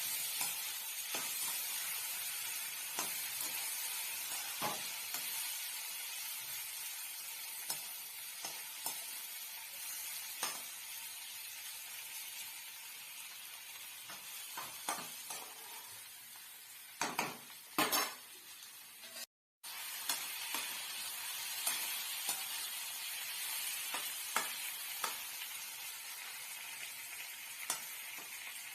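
Pointed gourd (parwal) sabzi sizzling as it fries in a pan, with a spatula stirring and clicking against the pan now and then.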